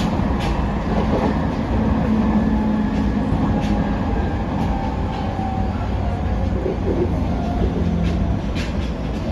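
Interior running sound of an E501 series electric train's motor car: a steady low rumble of wheels on rail, with faint held whines from the traction motors. There are irregular sharp clicks from the wheels crossing rail joints.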